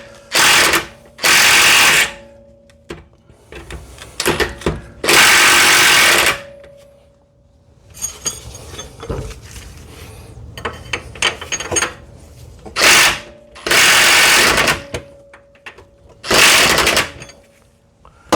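Air-powered tool on the suspension run in about six short bursts, each half a second to a second and a half long, with quieter metal knocks and clinks between.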